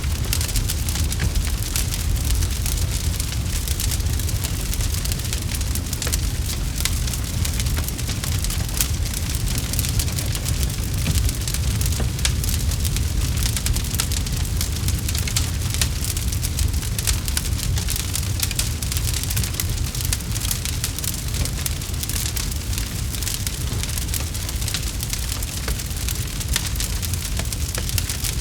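Campfire crackling steadily: many small sharp pops and snaps over a continuous low rumble of the burning fire.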